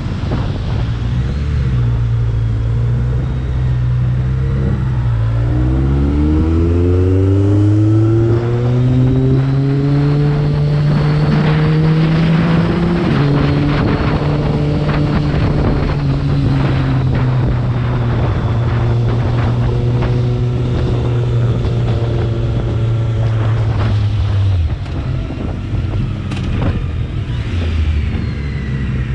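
BMW K1300R's inline-four engine under way, with wind noise over the microphone. The engine pitch rises sharply about five seconds in as it accelerates, drops back once around halfway as it shifts up, holds steady, then falls again near the end as the throttle eases off.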